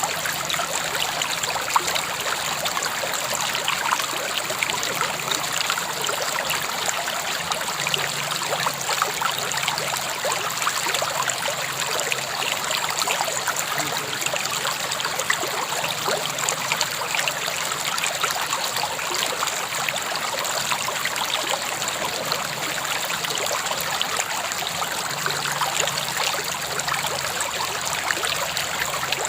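River water flowing steadily, with a continuous trickling, babbling rush.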